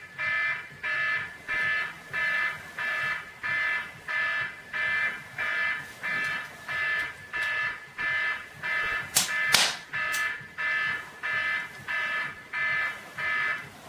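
Electronic alarm clock beeping, about three beeps every two seconds. A little past the middle come three sharp knocks, and the beeping stops just before the end.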